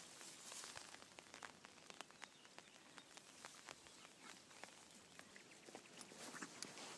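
Faint footsteps and rustling: scattered soft ticks over a quiet outdoor background.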